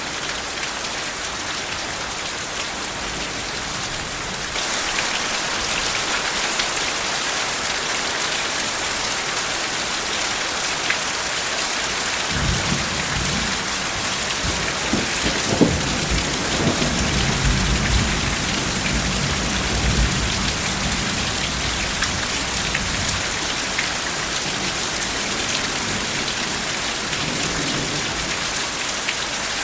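Steady heavy rain falling, growing a little louder about four seconds in. Partway through, a low roll of soft thunder rumbles in and fades away over several seconds.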